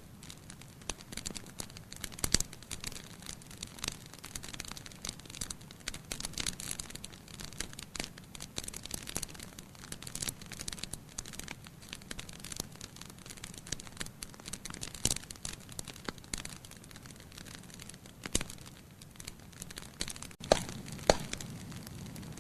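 Wood fire in a fireplace crackling steadily, thick with small pops and ticks and a few louder snaps, with a low hiss of the flames rising a little near the end.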